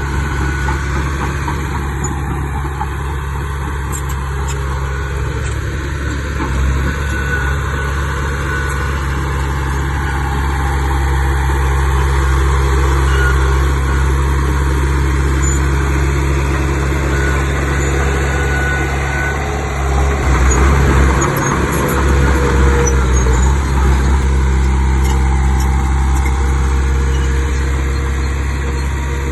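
Heavy diesel engine of earthmoving machinery running steadily, working harder for a few seconds about two-thirds of the way through.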